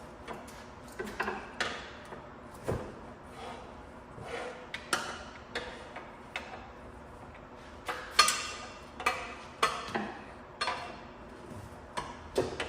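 Irregular metallic clanks and knocks, some with a short ring, as the stock exhaust pipes of a Corvette Stingray are worked loose and pulled out; the sharpest knock comes about eight seconds in.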